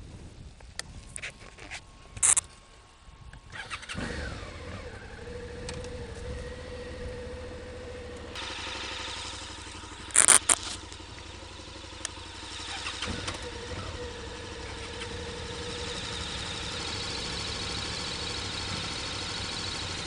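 Motorcycle engine starting about four seconds in and then idling steadily, with a few sharp clicks before it catches and two short, loud high-pitched sounds along the way.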